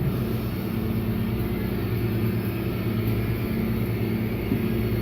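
Steady low rumble of a moving subway train, heard from inside the car, with a few held low hums.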